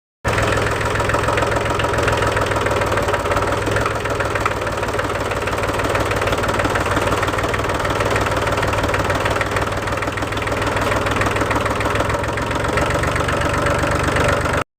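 Small diesel engine of a home-built mini tractor running steadily with a fast, knocking rattle.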